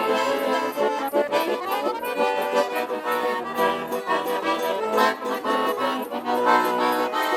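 Garmon (Russian button accordion) playing an instrumental passage of a folk tune, the melody over a steady rhythm of chord strokes.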